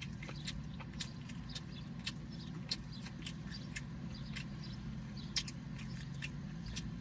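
Close-miked chewing of rotisserie chicken, with wet mouth clicks and smacks several times a second, two of them louder, over a steady low hum.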